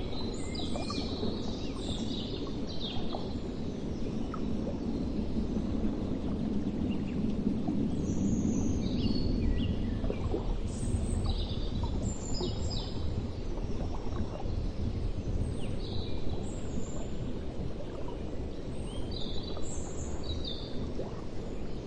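Outdoor ambience: a steady low rumbling noise with small birds chirping in short, scattered calls throughout.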